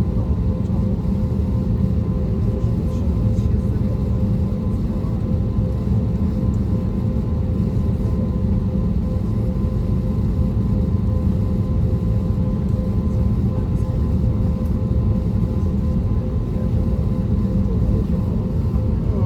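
Steady cabin noise inside an Airbus A320neo: a low rumble of air and engine noise from its CFM LEAP-1A engines, with a steady higher hum running through it, unchanging throughout.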